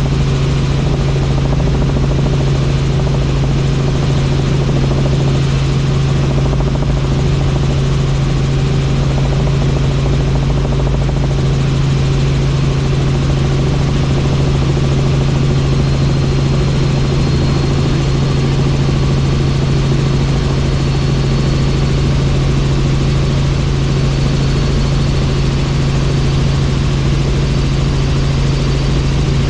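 Helicopter in flight: the rotors and turbine run steadily, with a strong, even low hum under a constant rushing noise.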